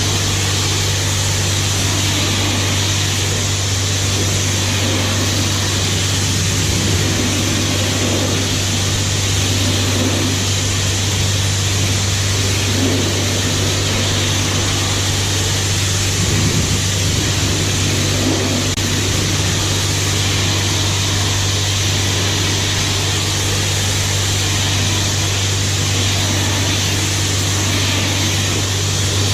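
High-pressure car-wash wand spraying rinse water over a car: a steady hiss of spray over a constant low hum.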